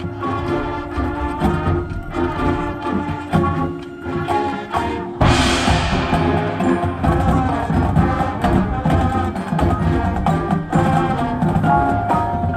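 High school marching band playing its show music, with brass over drums and mallet percussion. About five seconds in, the full band comes in suddenly louder.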